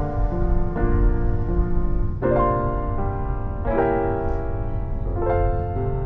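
Background piano music, soft chords struck about once a second over a steady low accompaniment.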